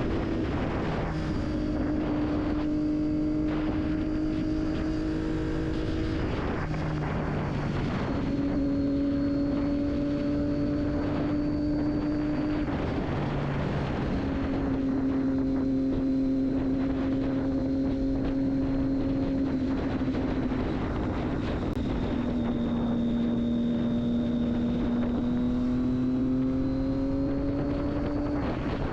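Triumph Daytona 675's inline three-cylinder engine through an Akrapovic exhaust, running at fairly steady revs while riding. Its note steps down three times after brief breaks, and climbs again near the end.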